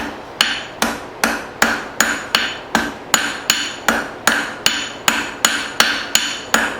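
Hand hammer striking hot file steel on an anvil in a steady rhythm, about two and a half blows a second, each blow ringing briefly, while a small scroll is forged on the end of a fire striker's handle.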